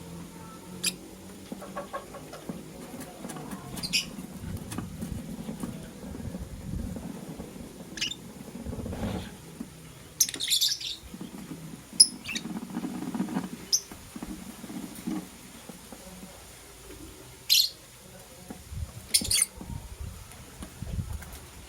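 Lovebirds giving short, sharp chirps every few seconds, some in quick pairs. Low scuffling and scratching noise fills the gaps between the calls.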